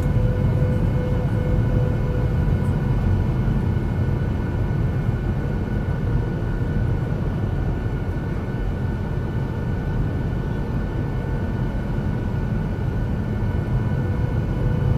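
Steady jet airliner cabin noise: a low rumble of engines and airflow, with several steady whining tones from the engines on top.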